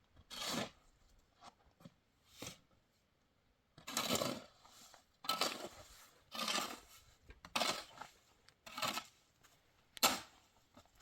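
A series of rasping, tearing strokes, each about half a second long, coming roughly once a second and most regular in the second half, like material being scraped, cut or torn by hand.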